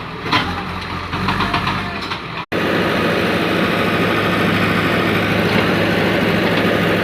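Heavy vehicle's engine idling steadily. About two and a half seconds in, the sound cuts out for an instant and comes back louder, with the engine running on under a steady hiss.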